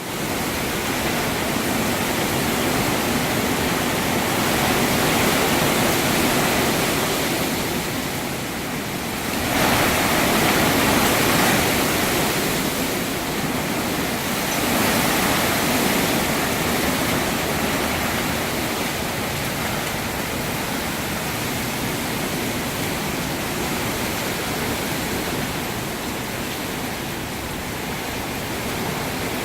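Hurricane wind and rain: a loud, steady rush of noise that swells and eases in gusts, strongest about ten seconds in.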